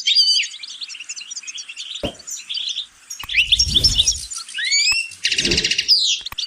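European goldfinch singing: a fast, continuous twittering song with a few rising whistled notes and a short buzzy rattle near the end. Two brief low rumbles sound under the song, one in the middle and one near the end.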